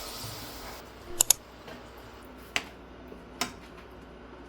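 A few sharp clicks or taps: two close together about a second in, then single ones near the middle and later, over a faint hiss that fades out early on.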